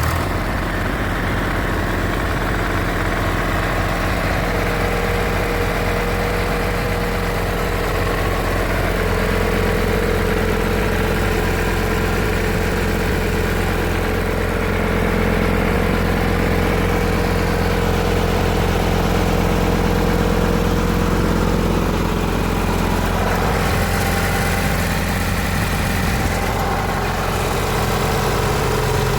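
A motor running steadily with a low, even hum. A higher whine comes in about four seconds in and drops away after about twenty-two seconds.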